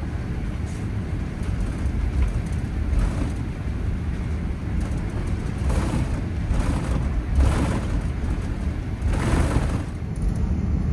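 Steady low rumble of a Boeing 787-9's cabin on the move, heard from a seat inside, with several brief hissing surges over it.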